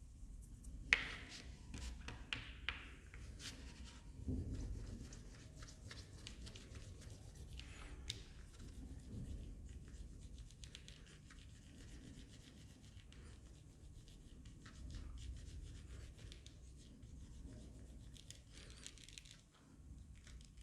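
Faint rubbing and light scraping of hands rolling plasticine into thin sausages on a work surface, with scattered small clicks and taps.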